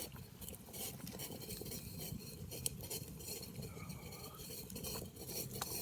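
Water boiling viciously in a stainless-steel Zebra billy can over a campfire: a steady bubbling rumble with many small clicks throughout.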